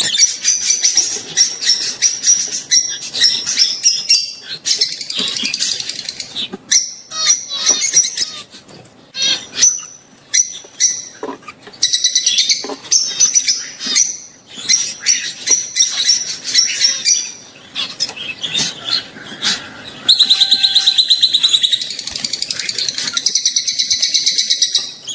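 A group of peach-faced and Fischer's lovebirds chattering: rapid, high-pitched chirps, squeaks and trills from several birds at once, the calls of birds in breeding condition. The chatter grows denser and louder near the end.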